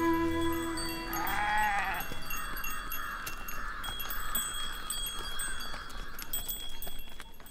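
A herd of cattle on the move. One high, bleating call comes about a second in, then bells clink and ring steadily until near the end. Background music fades out at the start.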